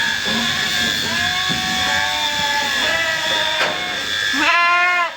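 Sheep bleating over the steady whine of electric sheep-shearing clippers. One loud bleat starts about four and a half seconds in and cuts off suddenly at the end.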